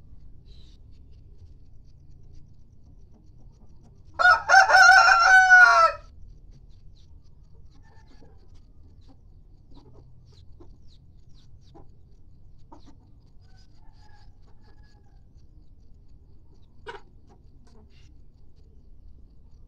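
A kampung rooster crows once, about four seconds in, a single loud call under two seconds long that falls in pitch at the end. A short faint chicken call follows near the end.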